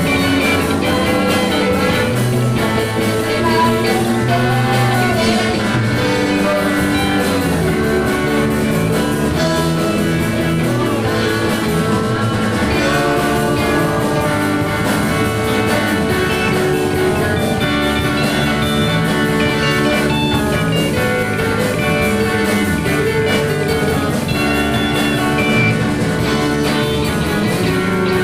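A band playing an instrumental passage of rock/blues music with guitar and drums, steady and loud, no singing.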